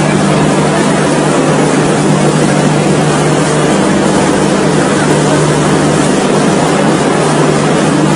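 Train running: a steady, loud rumble and rush with a low, even hum underneath.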